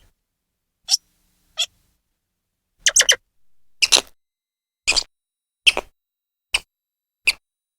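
Grey squirrel chirping: short, sharp, high calls about one a second, some coming in quick pairs.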